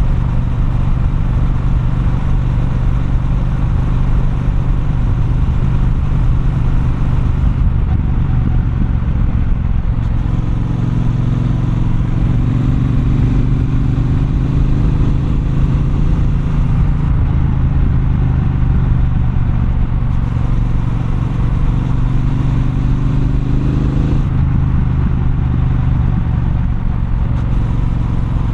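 Triumph Bonneville Bobber's 1200 cc parallel-twin engine running under way in city traffic, its pitch climbing slowly from about a third of the way in, then dropping sharply near the end as the throttle closes.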